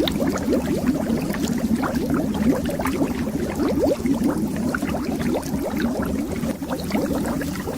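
Bubbles streaming under water: a dense, continuous run of small bubbles, each a short rising blip.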